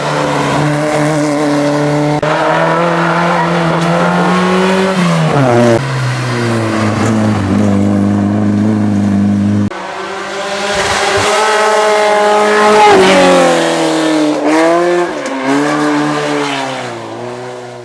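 Rally car engine running hard on a special stage, revving up and dropping back with gear changes. The sound changes abruptly about ten seconds in, then the revs climb again before fading out.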